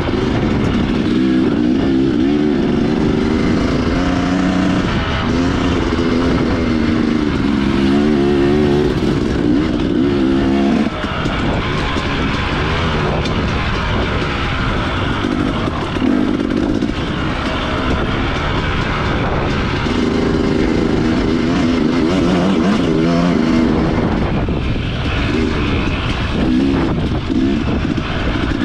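Dirt bike engine running under way, its pitch rising and falling in steps as the rider works the throttle and shifts, over a constant rumble.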